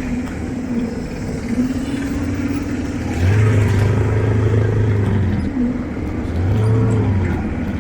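Motor vehicle engines running and changing speed over general street noise; the loudest engine sound swells for a couple of seconds about three seconds in and again briefly near the end.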